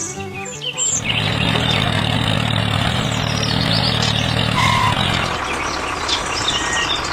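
A vehicle engine running steadily, its low hum dropping away about five seconds in.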